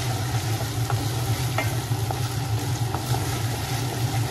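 Mutton pieces in thick masala sizzling as they fry in a metal kadai, stirred with a wooden spatula, with a few light clicks of the spatula against the pan. A steady low hum runs underneath. The meat is at its final roasting (bhuna) stage.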